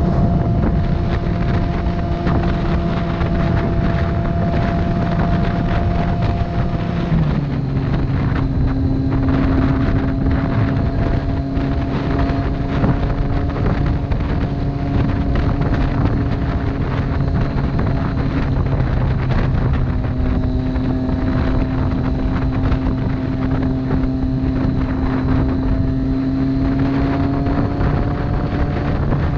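Triumph motorcycle engine running on the road, with heavy wind rush over the microphone. The engine note drops suddenly about seven seconds in, a gear change up, then climbs slowly as the bike gathers speed and drops again right at the end.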